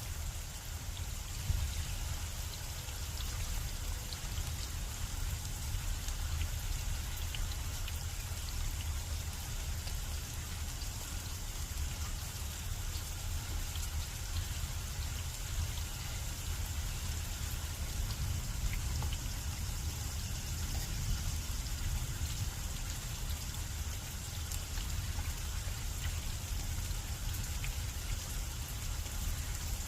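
Steady rain falling, with scattered drop ticks and a constant low rumble underneath.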